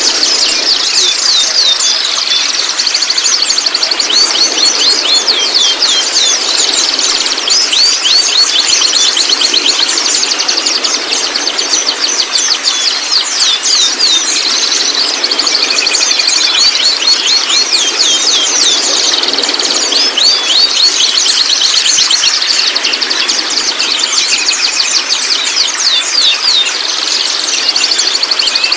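White-rumped shama (murai batu) giving its rapid rattling 'trotol' call: fast runs of sharp, high, down-sweeping notes, repeated again and again.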